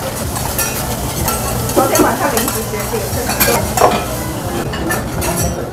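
Food sizzling on a teppanyaki hotplate: a steady frying hiss, with scattered voices and the odd clink of utensils in the restaurant.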